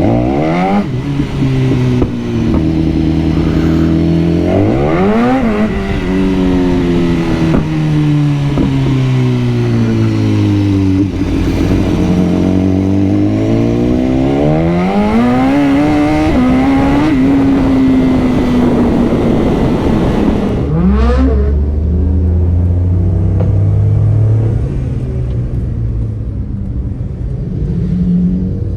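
BMW superbike's engine revving hard with quick upshifts, the pitch climbing sharply and dropping at each shift. In the middle the pitch falls steadily as it slows, then climbs again, and there is one more sharp rev near the end.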